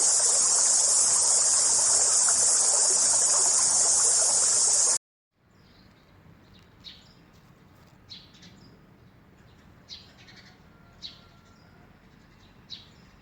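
Loud, dense insect chorus, a steady high shrill, cut off abruptly about five seconds in. Then faint outdoor ambience with a few short bird chirps, one every second or two.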